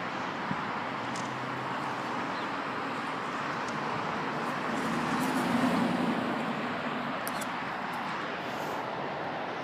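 Street traffic, with one vehicle passing that swells to its loudest about five to six seconds in and then fades.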